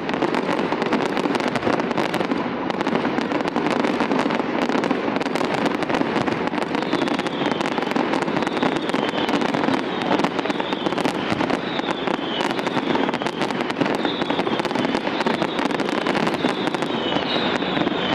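Fireworks crackling densely and without a break, with short high-pitched squeals over the crackle from about seven seconds in.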